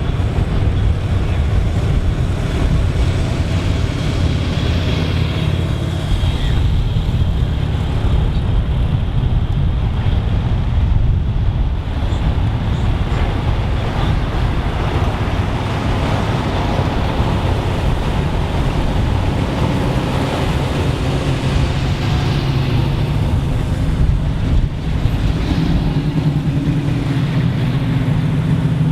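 Car engines running loud through open, uncapped exhaust headers as cars cruise past, a steady low engine sound with one engine's note growing stronger near the end.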